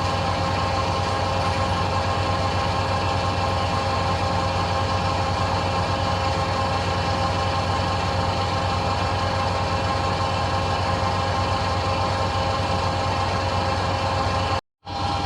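1966 Bendix LA automatic washing machine in its final spin, the drum turning at full speed (650 rpm): a steady whine over a low drone. A brief silent dropout comes near the end.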